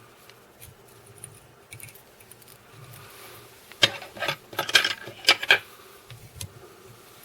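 Small metal tools clicking and clinking at a fly-tying vise: a quick cluster of sharp clicks about four to five and a half seconds in, over faint room tone.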